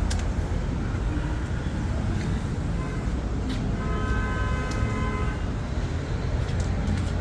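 Steady low vehicle-engine and traffic rumble, with a vehicle horn sounding once for about a second in the middle, and a few sharp clicks.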